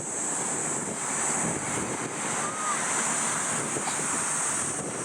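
Jet engine noise from the Airbus A350-900's Rolls-Royce Trent XWB engines: a steady rushing roar with a high hiss, swelling slightly about a second in.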